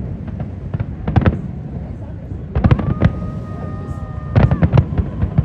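Fireworks going off in quick clusters of sharp bangs and crackles, about a second in, around halfway and again near the end. A steady high tone is held for over a second between the clusters.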